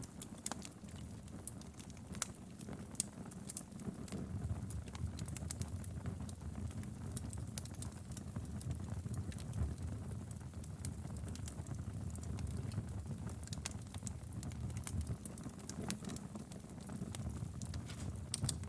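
Wood fire in a fireplace crackling, with irregular sharp pops over a steady low rumble of the flames; a few pops stand out louder, about 2 and 3 seconds in and near the end.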